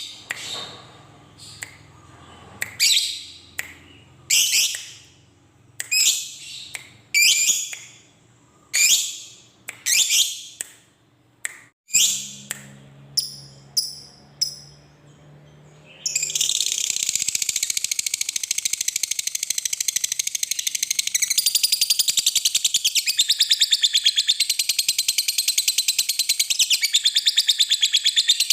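Lovebird calling: separate sharp, high chirps about every second and a half, then from about halfway a long, unbroken, very rapid chatter, the long 'ngekek' trill.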